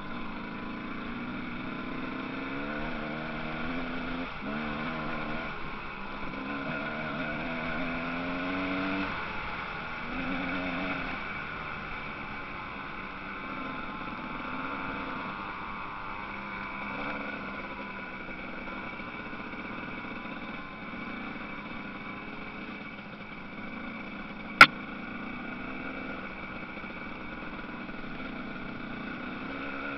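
Motocross motorcycle engines revving, rising and falling in pitch through the first ten seconds or so, then a quieter, steadier engine drone. A single sharp click about 25 seconds in is the loudest moment.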